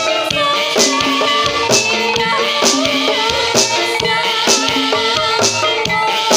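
Javanese gamelan music for a kuda kepang (ebeg) dance: pitched metallophone melody over drum strokes, with a bright metallic crash about once a second.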